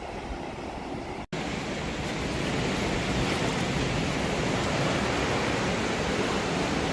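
Fast river water rushing, a steady, even hiss of white water. About a second in there is a brief cut, after which the rushing is louder and brighter.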